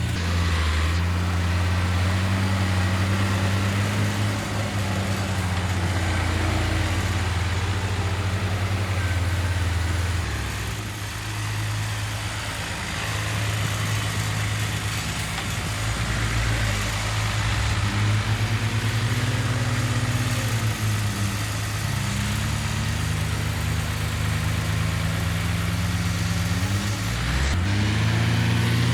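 Heavy diesel engines of earthmoving machines running continuously, their pitch rising and falling several times as the machines are worked.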